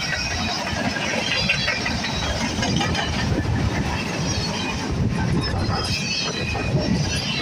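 Freight cars of a Canadian National freight train rolling past at close range: a steady rumble of steel wheels on the rails, with scattered high metallic squeaks and rattles over it.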